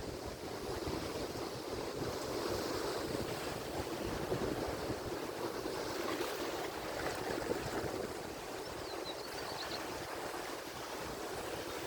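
Atlantic Ocean surf: a steady wash of breaking waves, with wind rumbling on the microphone.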